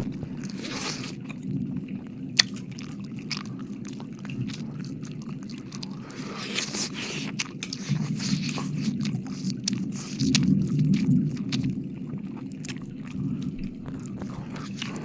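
Wet mouth sounds right at the microphone: dense, rapid clicks and smacks of lips and tongue, with one sharp click about two and a half seconds in that is louder than the rest.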